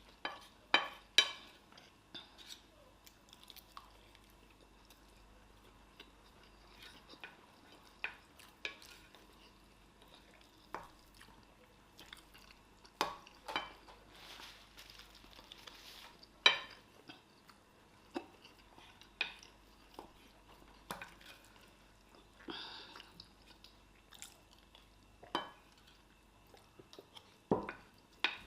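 Spoons clicking and scraping against plates at irregular intervals, with chewing between them, as two people eat fast.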